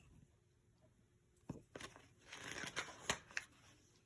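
Faint paper rustling with a few soft clicks: a page of a picture book being turned.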